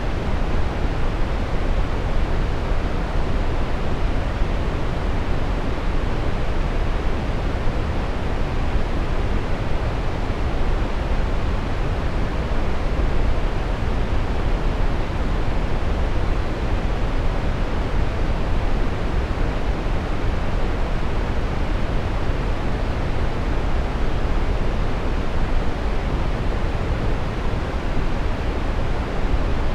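Steady brown noise: an even, unchanging rushing hiss weighted toward the low end, with no tones or events.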